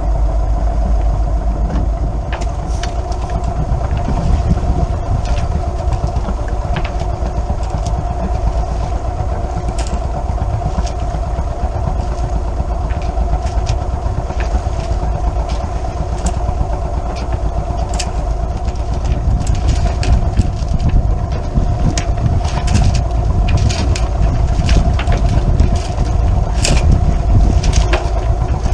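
A sailboat's inboard engine running steadily under way, with a heavy low rumble of wind on the microphone. Scattered sharp clicks and knocks come more often in the second half.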